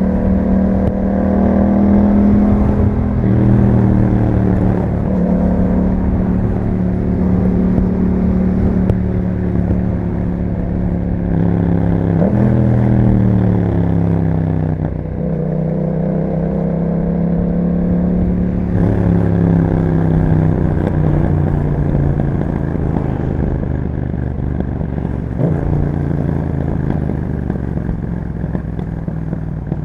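Yamaha MT-07 parallel-twin engine running through an Akrapovic exhaust while riding, its note rising and falling with several sudden changes in pitch as the revs climb and drop.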